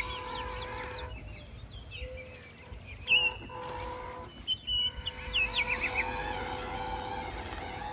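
Bird chirps: short, quickly falling calls in two brief bursts, about three seconds in and again near five seconds, over a steady hum.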